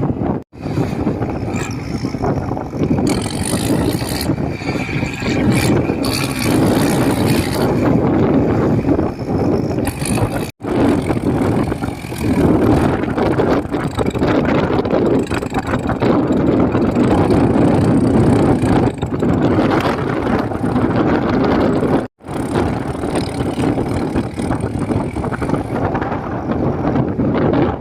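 Swaraj 855 tractor's three-cylinder diesel engine running hard, a loud, dense engine noise, broken three times by a brief gap of silence.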